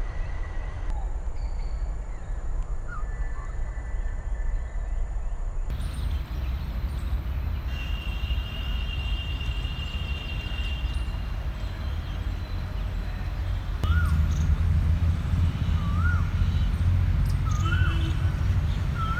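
Outdoor ambience with a steady low rumble, changing abruptly several times as clips change. Birds call over it, short whistled notes repeating every second or two in the last few seconds.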